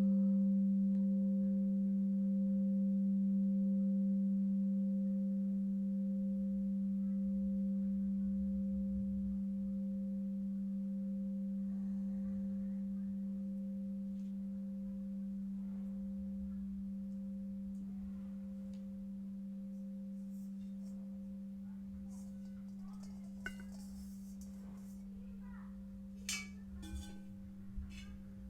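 A singing bowl ringing on as one steady low tone with a fainter higher overtone, slowly fading. A few light clicks come near the end.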